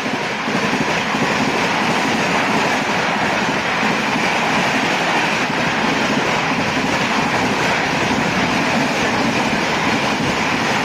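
Indian Railways express train passing at high speed: a steady, loud rush and rumble of wheels on the rails, following a horn that drops in pitch just before.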